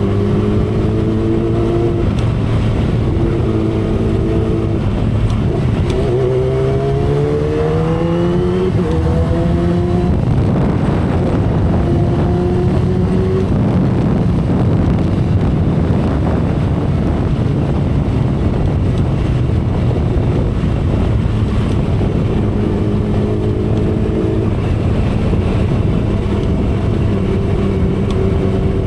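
2012 Kawasaki Ninja ZX-10R's inline-four engine running at road speed, heard from the saddle with wind rushing over the microphone. About six seconds in, the engine note rises as the bike accelerates. Wind noise then covers it for a stretch before the steady engine note comes back near the end.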